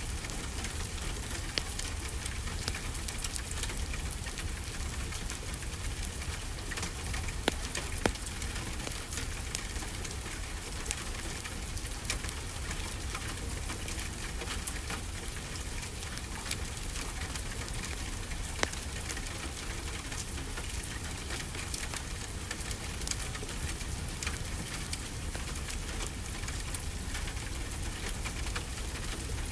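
Steady rainfall with a wood fire crackling alongside it, scattered sharp pops standing out every second or so over an even hiss and a low steady rumble.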